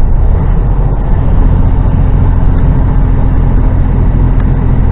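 HGV truck's diesel engine running steadily on the road, a loud low drone mixed with road noise; a steady engine tone joins about a second in.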